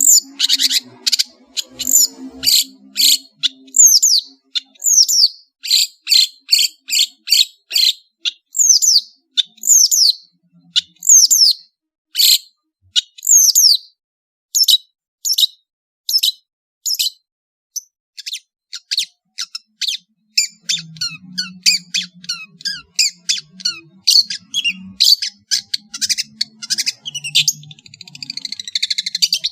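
Long-tailed shrike (cendet) singing a loud, varied song of sharp, high whistled notes, many sweeping down in pitch, at about two a second. The notes thin out near the middle, then become a faster run of short chirps in the last third.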